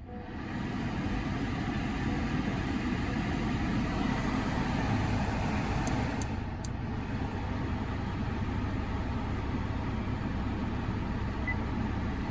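2018 Honda Accord's 2.0 L four-cylinder engine starting and settling into a steady idle, with the cabin fan blowing, heard from inside the car.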